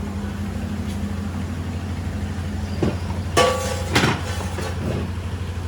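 Truck engine running steadily with a low, even rumble, with a few short clanks and a brief ringing squeak about three to four seconds in.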